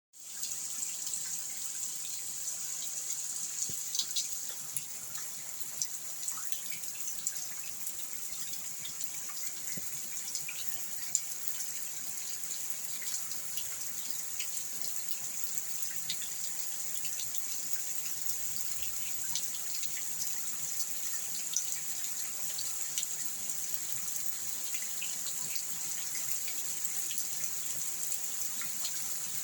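Rain falling steadily: a continuous high hiss with many scattered drop ticks.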